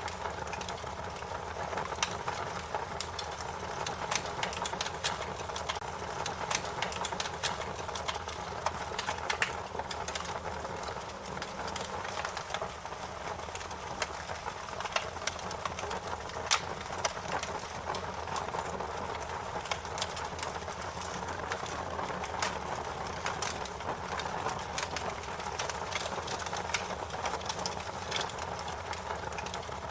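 Fire crackling steadily, with irregular sharp pops and snaps over a continuous hiss and low rumble of burning.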